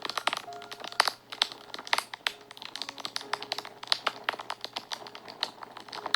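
Wood fire crackling, with frequent sharp pops and snaps of varying loudness, several a second. Soft background music with held notes underneath.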